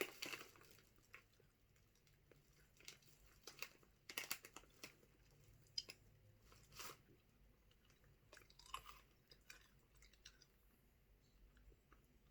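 Faint chewing of Skittles candy, close by, with scattered soft clicks and small crunches of the mouth and teeth.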